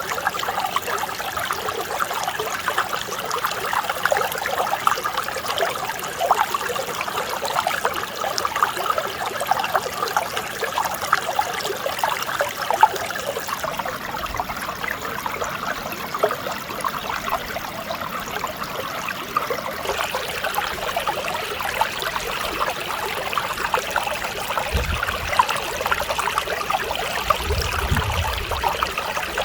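Mountain stream babbling and splashing over rocks in a steady, unbroken flow. About two-thirds of the way through the water turns brighter and hissier, and near the end a low rumble comes and goes beneath it.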